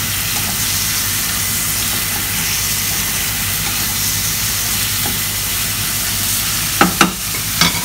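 Chicken pieces sizzling in hot oil in a metal wok as they are stir-fried with a slotted spatula, a steady frying hiss. Near the end come a few sharp clacks of the spatula against the pan.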